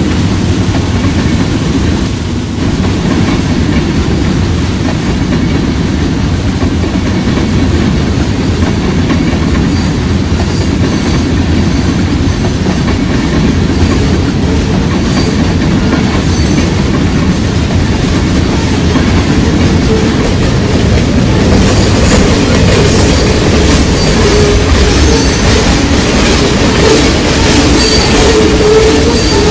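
Train cars rolling past with a loud, steady rumble and wheel clatter; thin high wheel squeals come in during the second half.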